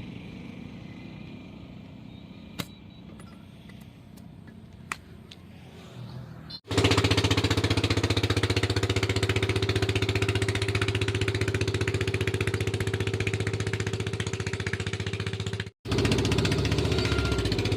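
A machine running steadily with a fast, even pulse, starting abruptly about six and a half seconds in after a low hum with two light clicks, and breaking off for an instant near the end before carrying on.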